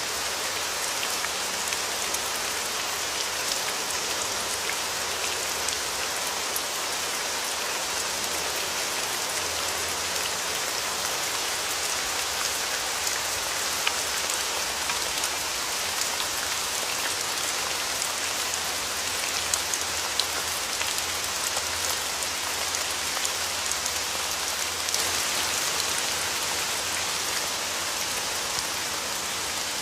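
Steady rain falling on a surface: an even hiss of many drops, with individual drop ticks here and there.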